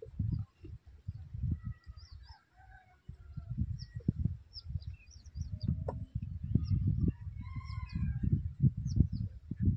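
Birds calling: scattered short chirps and a couple of longer calls, one about two seconds in and one about eight seconds in, over an uneven low rumble that is louder than the calls.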